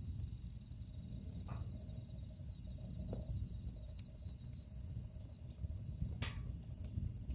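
Wood fire burning in a fireplace: a steady low rumble of flames with scattered sharp crackles and pops, the strongest about six seconds in.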